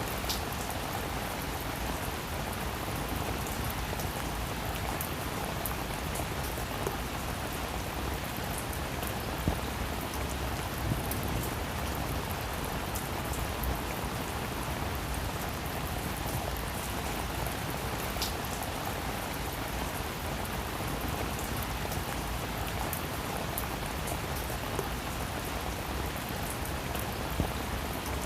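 Steady rain falling on a roof: an even hiss with scattered sharper drop ticks.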